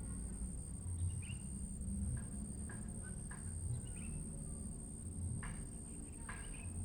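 Outdoor ambience: a steady high-pitched insect drone over a low rumble, with short bird chirps scattered through, several close together near the end.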